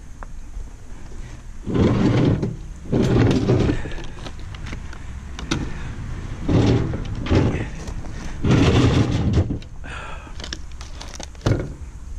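A work table being dragged across the floor in four separate scraping shoves.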